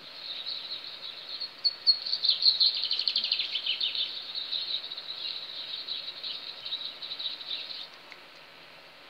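Small birds chirping and twittering rapidly in high-pitched notes, loudest a couple of seconds in, then stopping suddenly near the end and leaving a faint hiss.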